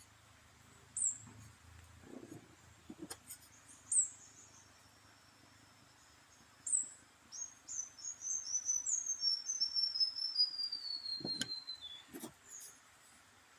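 A small bird calling: short high chirps, then a long run of quick high notes that step steadily down in pitch. A few sharp clicks fall in between.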